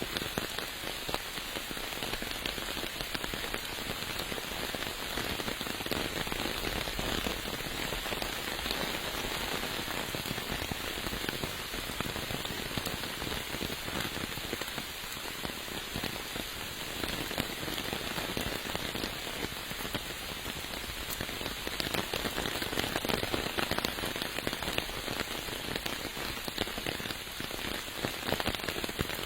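Steady rain falling, with many separate drops striking close by heard as fine sharp ticks through the hiss.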